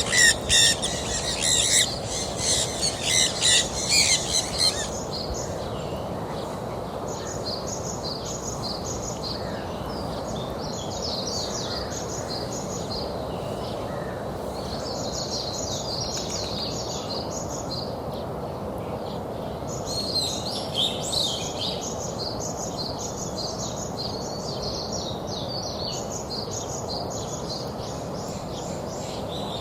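A flock of birds chirping: a dense, loud chorus of high chirps for the first few seconds, then quieter runs of rapid chirps that come and go, over a steady background rumble.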